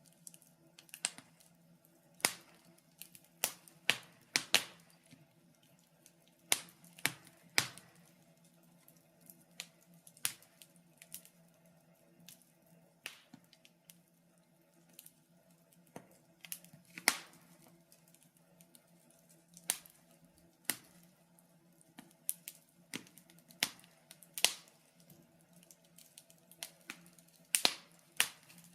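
Wood fire crackling: irregular sharp pops and snaps from the burning logs, sometimes in quick clusters and sometimes a second or two apart, over a faint low steady hum.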